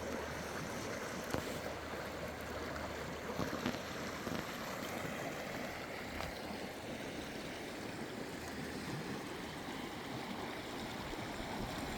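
Steady rush of the Klamath River flowing, with a couple of faint knocks about a second and a half and three and a half seconds in.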